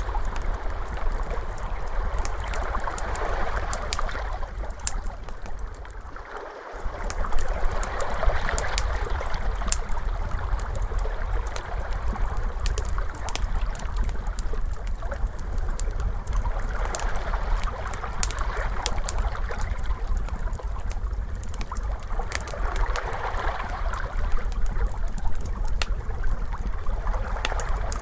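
Crackling fire, with sharp pops and snaps, over ocean waves washing in and out in slow swells. The sound dips briefly about six seconds in.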